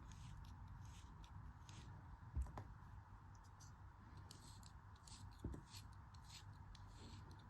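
Faint, crisp cutting strokes of a knife slicing a soft, crumbly craft material, with two soft thumps about two and a half and five and a half seconds in.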